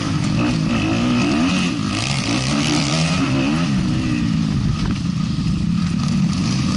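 Several motocross bike engines running and revving at once, their pitches rising and falling and crossing one another.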